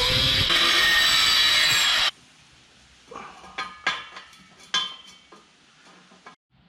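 Angle grinder cutting steel exhaust pipe, a loud steady whine and hiss that stops suddenly about two seconds in. A few light metal taps and clinks follow.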